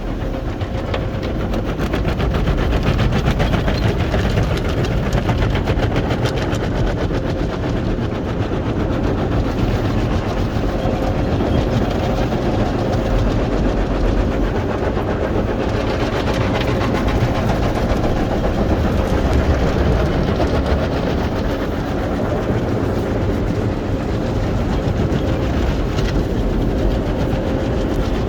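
Automatic car wash heard from inside the car: continuous rushing and pattering of water and wash machinery on the car body, with a steady mechanical hum.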